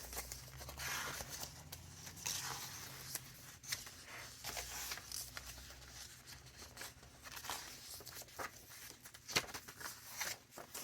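Paper rustling and crinkling as thick junk-journal pages and tucked paper ephemera are handled and turned, with scattered short crisp clicks and taps.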